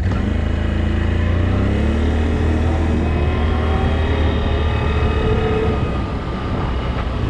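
A motor vehicle's engine running close by, its pitch climbing over the first couple of seconds and then shifting as it drives on.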